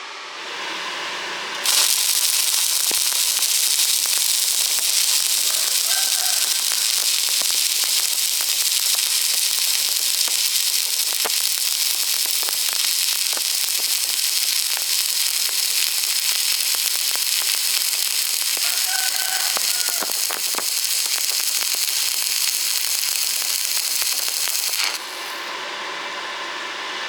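Stick-welding arc crackling and hissing steadily as the electrode burns. It strikes up about two seconds in and breaks off a couple of seconds before the end.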